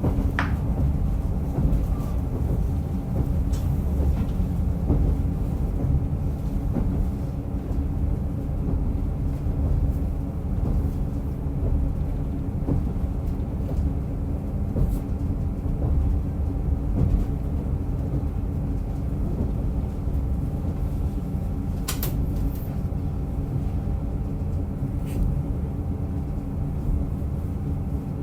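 Diesel train on the Rumoi Main Line running along the track: a steady low rumble with an even engine tone, broken by a few sharp clicks, the clearest about two-thirds of the way through.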